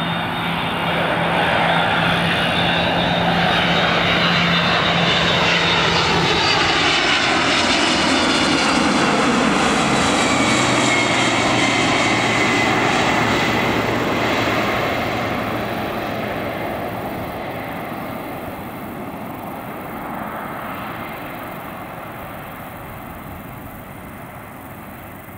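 Boeing 767-300ER jet engines on a landing pass: the noise builds, holds loud, and its whine slides down in pitch as the airliner goes by, then fades away over the last ten seconds.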